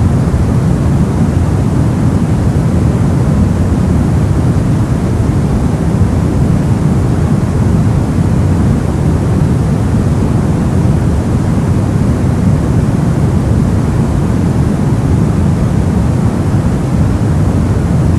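Steady sleep-noise track: an even, soft rushing noise with most of its weight in the low end and no changes or separate events.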